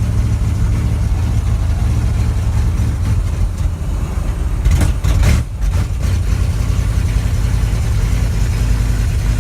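Engine of a 1978 Dodge truck running steadily, with a brief burst of noise about five seconds in.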